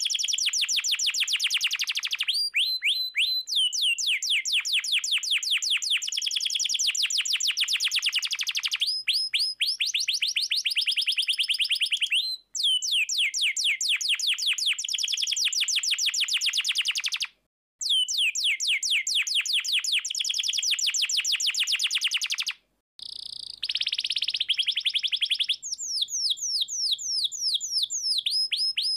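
Domestic canary singing long rolling trills of rapidly repeated, downward-sweeping notes, about ten a second, changing from one trill to the next. The song breaks off suddenly to silence a few times for a moment, as in an edited loop.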